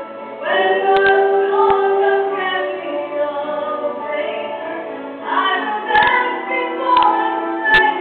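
A female voice singing a slow musical-theatre ballad with long held notes, other voices or accompaniment beneath. A few sharp clicks cut through, around the first second and again near the end.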